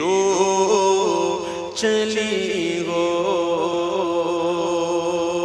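A voice singing a naat unaccompanied, holding long wavering notes without clear words.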